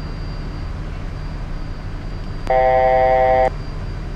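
Steady low cockpit noise of a Beechcraft Premier 1A business jet climbing out after takeoff. About two and a half seconds in, a loud electronic tone made of several pitches at once sounds for about a second and cuts off sharply.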